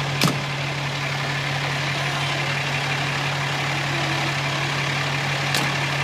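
Fire truck engine running steadily with a constant low hum, and two sharp clicks, one about a quarter second in and one near the end.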